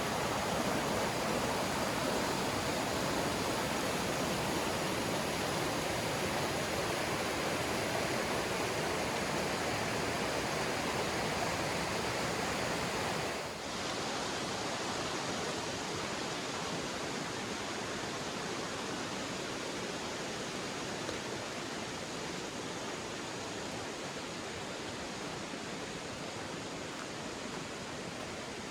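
A river rushing over rocks: a steady wash of water noise that dips briefly about halfway through.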